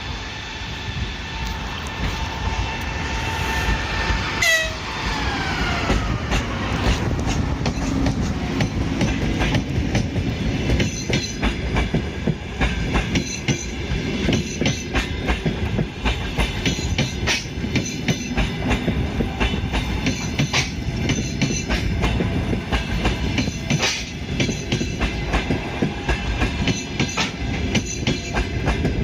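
EP20 electric locomotive sounding its horn, a chord of several tones held for about four and a half seconds, then a falling whine as it passes. After that come the rumble of the train and a steady clickety-clack of its carriage wheels over the rail joints.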